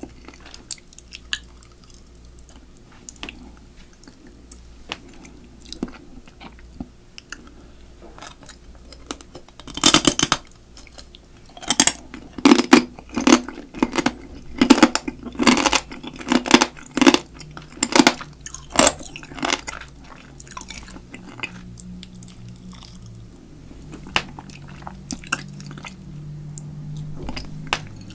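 Close-miked chewing of spicy marinated crab, biting through the shell. Soft wet mouth and finger sounds come first. From about ten seconds in there is a run of loud shell crunches, roughly two a second, lasting some eight seconds.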